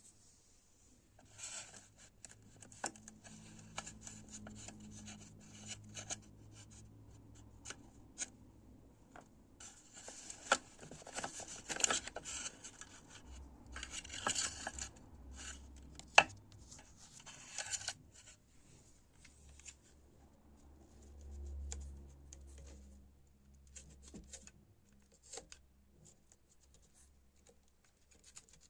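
Hand work on small parts: intermittent scraping and rubbing with scattered clicks and knocks, and one sharp click about sixteen seconds in.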